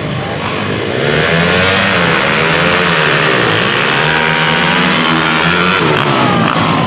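Two 226cc to 450cc drag motorcycles launching and racing down a dirt drag strip, their engines revving hard. The pitch climbs and drops with each gear shift, and it gets louder about a second in.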